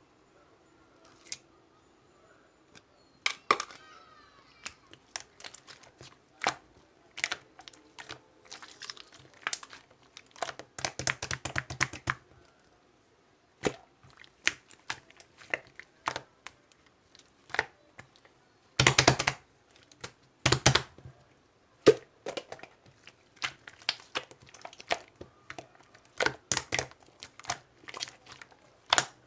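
Marbled slime being squeezed, stretched and poked by hand, giving irregular sticky clicks, pops and crackles, with denser runs of popping about eleven and nineteen seconds in.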